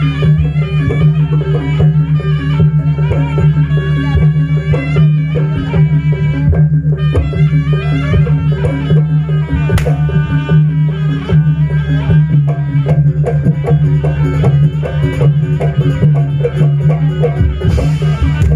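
Live Jaranan Buto music: a traditional Javanese ensemble playing fast hand-drum patterns with a pitched melody over a steady low drone.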